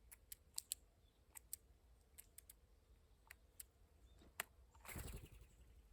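Faint, irregular sharp clicks of a blue jay's bill picking up seeds at a feeder, with a short rustle about five seconds in.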